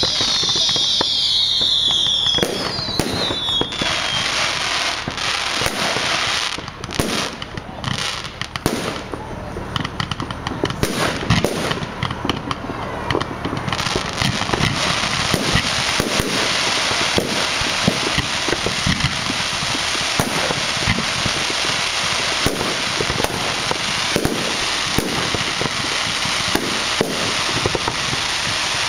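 Fireworks display: several whistling fireworks falling in pitch in the first few seconds, then a dense, continuous run of bangs and crackling.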